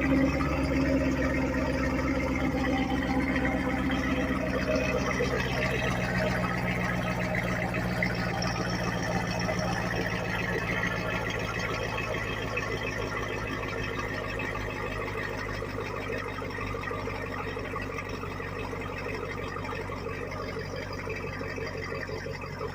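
Chevrolet Camaro SS V8 idling steadily after a cold start, its sound settling and gradually getting quieter over the stretch.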